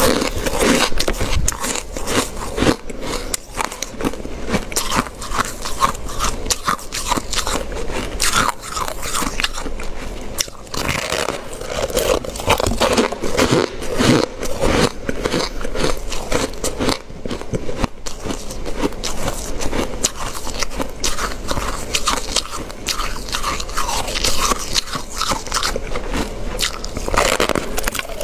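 Close-miked ice eating: a person biting and chewing ice, with a rapid, continuous crunching and crackling of ice breaking between the teeth.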